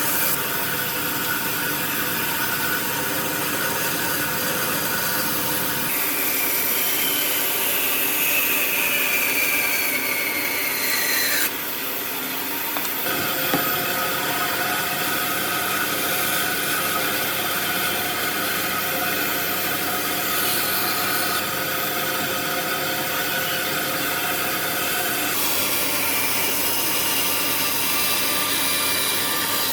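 Power tools running on wood, cutting and shaping it, with the sound changing abruptly several times between takes. Partway through, a high whine falls steadily in pitch for a few seconds.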